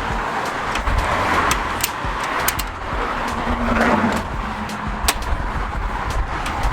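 Steady road and wind noise from a vehicle driving at speed, a rushing hiss over a low rumble, with a few sharp clicks scattered through it.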